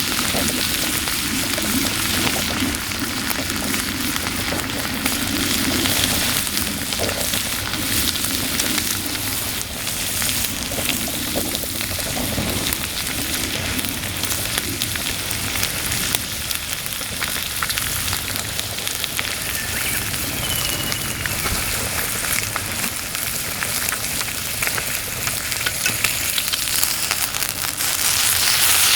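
Meat sizzling and spitting on a grill set on top of a kerosene heater: a steady frying hiss with many small crackles and pops throughout.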